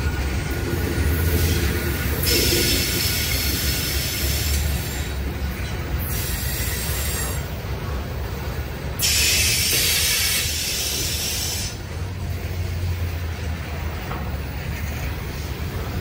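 Covered hopper cars of a long freight train rolling past with a steady low rumble of wheels on rail. High-pitched wheel squeal rises over it about two seconds in and again about nine seconds in.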